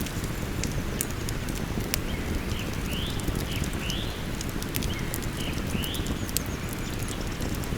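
Campfire crackling with frequent sharp pops over the steady rush of a flowing river. In the middle a bird calls several times, short rising chirps in three pairs.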